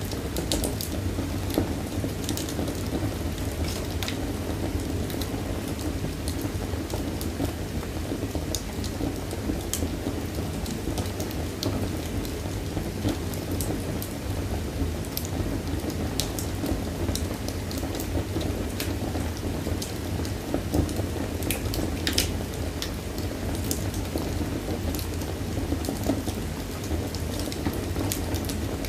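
Wood fire burning in a fireplace: a steady low rumble with irregular sharp crackles and pops throughout.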